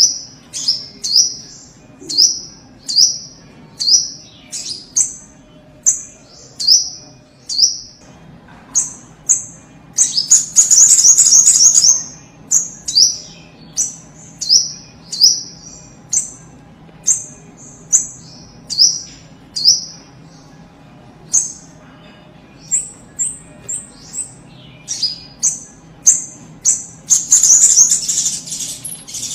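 Sogok ontong (spiderhunter) calling vigorously: a long series of sharp, high, downslurred chips, about one or two a second, broken twice by a fast rattling burst of rapid notes, once near the middle and once near the end.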